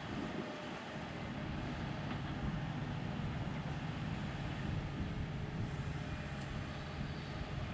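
Heavy diesel engine of earthmoving machinery running steadily, a low even drone.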